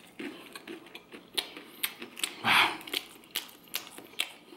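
Close-miked chewing of crusty French baguette: a run of sharp, irregular crunching clicks, with one louder noisy burst about halfway through.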